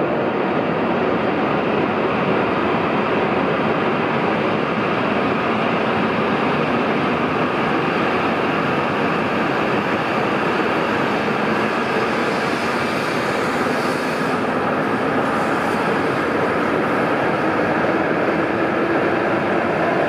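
E7 series Shinkansen train pulling out of the station and picking up speed past the platform: a steady rush of wheels and running gear as the cars go by.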